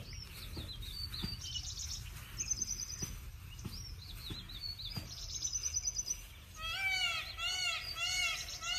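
Outdoor birds calling: scattered high chirps and short trills, then, about two-thirds of the way in, one bird starts a run of repeated arching call notes, about two a second.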